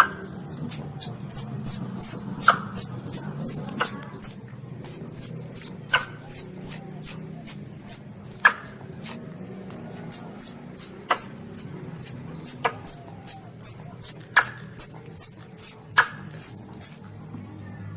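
Baby Asian palm civet (luwak) calling: rapid runs of very high, short, falling squeaks, about four a second, broken by brief pauses. A sharp click comes every second or two, over a low steady hum.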